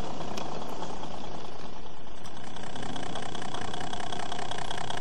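Model diesel locomotive running with a steady, even engine sound.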